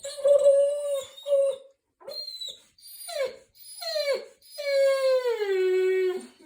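A dog howling in a series of pitched calls: several short ones, some sliding down, then one long call that slides down in pitch.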